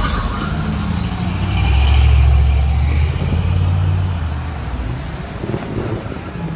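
Pickup trucks and cars driving past on a parade lap, their engines running at low speed. The engine sound builds to its loudest about two seconds in, then fades.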